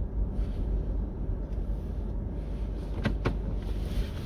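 Steady low vehicle rumble heard from inside a car with the windows up, with two short clicks about three seconds in.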